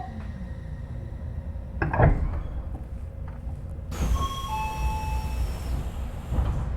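Odakyu 3000 series electric train coming to a halt: the falling whine of the inverter-driven motors fades out, then a loud thump. About four seconds in, a hiss of air starts and a two-note falling chime sounds, as the doors open.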